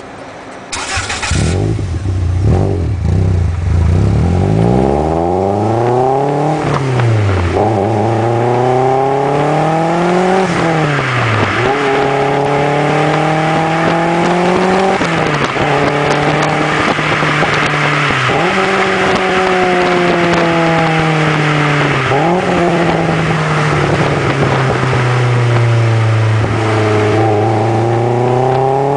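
Turbocharged Subaru Impreza GF8 flat-four engine through a thin-walled 75 mm FUJITUBO RM-01A exhaust. After a sudden burst about a second in, it idles, then is revved up and held several times, dropping back quickly between revs.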